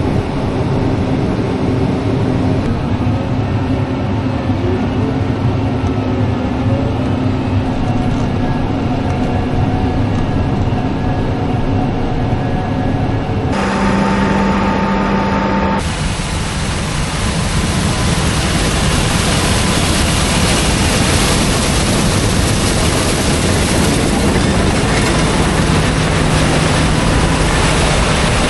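Combine harvester running at harvesting load, a steady engine drone with held machine tones. About halfway through the sound changes abruptly, and a louder, even rushing machine noise takes over for the rest of the time.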